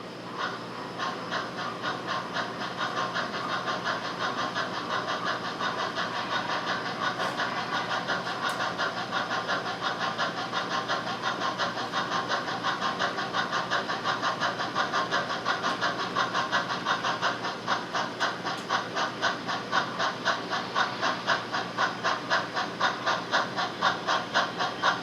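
HO scale model steam locomotive sound playing a steady, rhythmic exhaust chuff with steam hiss. The beats grow sharper toward the end.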